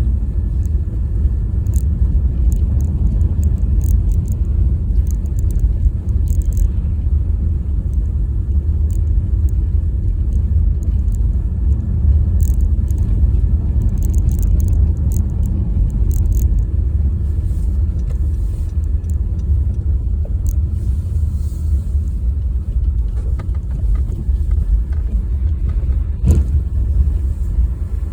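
Steady low rumble of a car driving, engine and tyres on the road, with a single short knock near the end.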